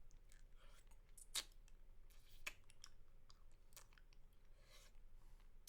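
Close-miked mouth sounds of someone licking and sucking a spicy mango lollipop: scattered soft clicks and smacks, the sharpest about a second and a half in and again near the end, with a couple of brief slurps between them.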